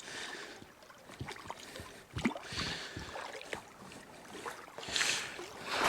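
Boots shifting on snow-covered creek ice: faint scattered crunches and ticks, with a soft rushing hiss that swells twice.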